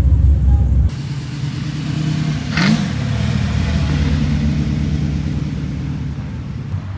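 Modified car engines driving slowly past, with a short rev about two and a half seconds in. A louder, deeper engine sound cuts off abruptly about a second in, where one clip gives way to another.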